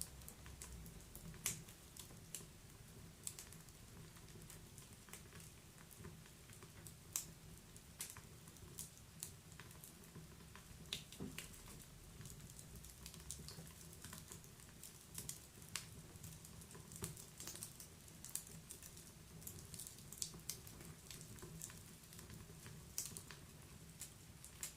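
Wood fire crackling in a fireplace: irregular sharp pops and snaps of burning logs over a low steady rumble of the flames.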